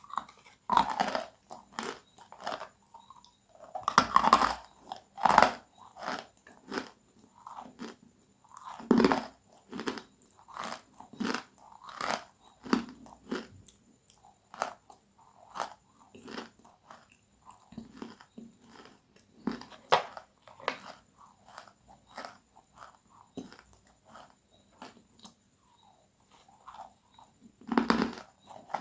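Close-miked biting and chewing of crispy, crunchy food: loud, sharp crunches come several a second in irregular runs, with the biggest bites about four to five seconds in, around nine seconds, and near the end.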